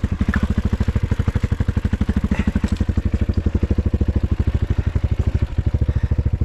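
Off-road motorcycle engine idling steadily with an even, rapid putter of about twelve beats a second.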